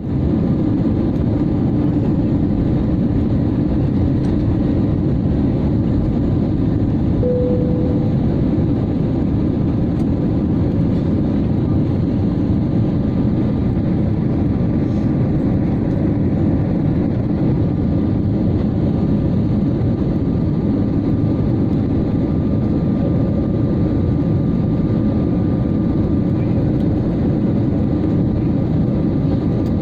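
Steady low roar of an airliner's engines and rushing air, heard from inside the cabin in flight, with a faint steady hum and a brief tone about seven seconds in.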